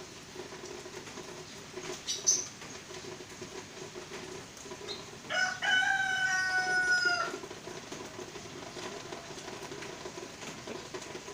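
Ayam Pelung rooster crowing once, a drawn-out call of about two seconds that eases slightly down in pitch before it stops, with a brief high chirp a few seconds earlier.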